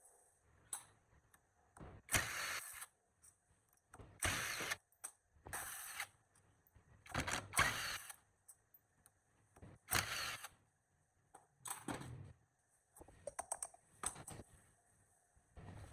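Hand-tool work on metal engine parts: a series of short, harsh strokes, roughly one every one to two seconds, with a cluster of quick clicks near the end.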